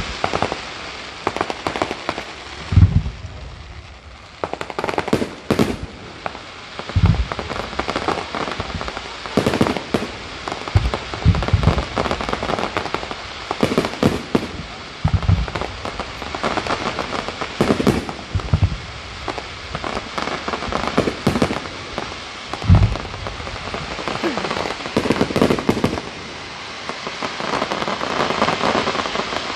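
Fireworks display: aerial shells bursting with deep booms every few seconds and many sharp bangs, over a continuous crackling of falling sparks that sounds like heavy rain. Toward the end the bangs stop and only the crackle goes on.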